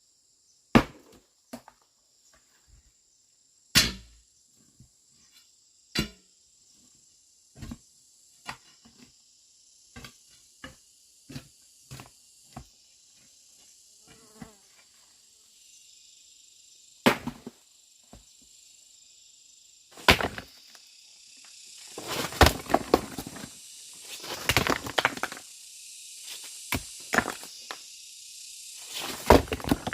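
Irregular sharp knocks and strikes, a few seconds apart at first, then coming thick and fast in rough, noisy bursts near the end, over a steady high insect drone.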